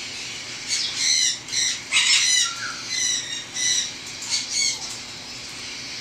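Hand-fed baby parrot chicks squawking, a run of about nine short, high-pitched calls that stops near the end: the food-begging calls of chicks at feeding time.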